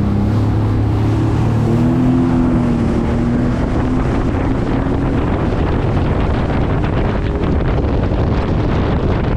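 Sea-Doo jet ski engine running and throttling up, its pitch rising about two seconds in, then wind buffeting the microphone takes over as it speeds along.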